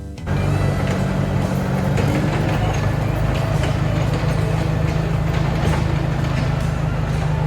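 Heavy equipment engine running steadily, with a constant low drone that comes in abruptly about a quarter second in.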